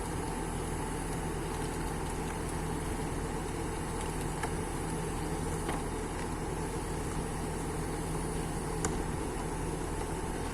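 Kobelco excavator's diesel engine running steadily with an even hum while the repaired wheel is test-turned, with a few faint clicks.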